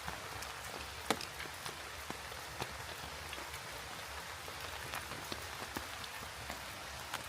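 Steady rain falling, an even hiss with many single drops striking close by at irregular moments; one sharper drop hit about a second in.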